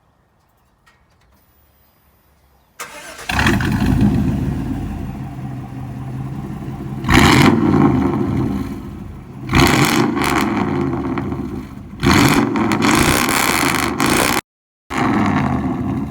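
Chevrolet 5.7-litre V8 in an 1988–98 pickup, with straight pipes, no catalytic converters and an X-pipe, starting up about three seconds in. It then runs loudly and is revved hard three times, the pitch falling back after each rev. The sound cuts out for a moment near the end.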